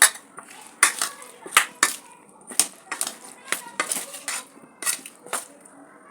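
Metal utensil clinking against a metal cooking pot, about a dozen sharp, irregularly spaced knocks.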